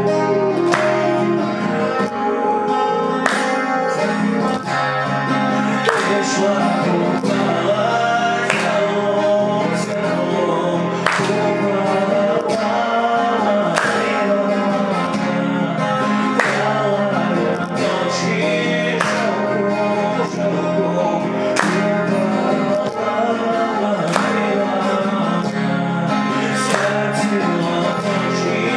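Acoustic guitar strummed in a steady rhythm, with a man singing over it, in a Belarusian folk song.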